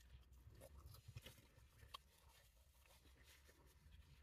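Near silence: faint chewing of a burger, with a few soft mouth clicks.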